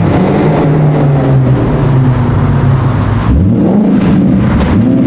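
Sports car engine running at a steady pitch, then accelerating about three seconds in, its pitch climbing in a rising sweep.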